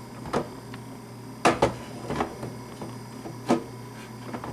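Plastic clicks and knocks as the removable water reservoir is set back onto a Black & Decker thermal carafe coffee maker: a handful of sharp taps, the loudest pair about a second and a half in.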